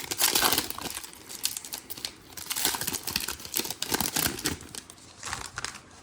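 Foil trading-card pack wrapper crinkling and tearing as it is opened and handled. It comes as a quick run of rustles, loudest just after the start and thinning out near the end.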